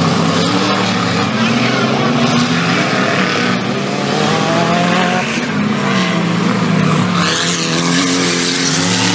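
4WD off-road race vehicles' engines revving, their pitch rising and falling as they are driven hard. A burst of hiss comes near the end.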